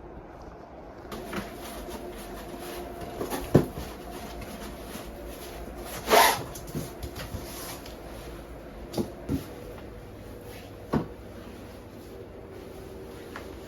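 Scattered knocks and clunks of objects being handled, with one louder, longer noise about six seconds in, over a steady low background hum.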